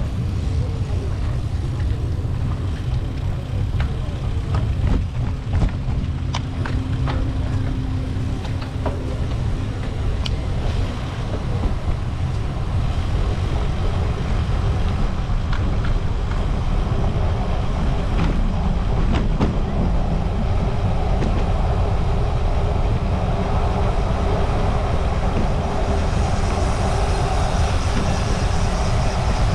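Wind rushing over the microphone while riding a bicycle, with road noise from the ride, scattered light clicks and a brief steady hum about a fifth of the way in; the rush grows fuller in the last third.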